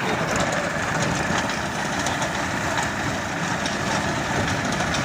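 Tractor engine with a mounted reaper binder, running steadily, with light irregular clattering over it.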